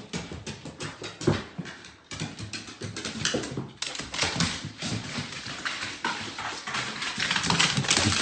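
A dog making short whimpering sounds, mixed with many quick taps and knocks.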